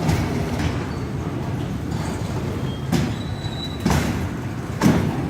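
Railway wagons rolling by with a steady low rumble, broken by sharp metallic clanks of wheels over rail joints and a brief faint wheel squeal a little after three seconds.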